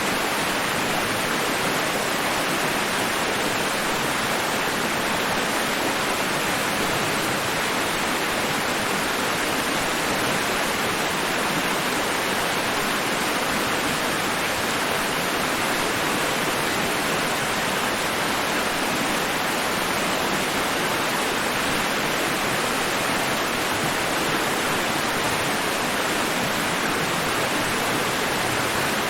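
White noise: an even, unchanging hiss spread across the whole range, with no rise and fall of breaking waves.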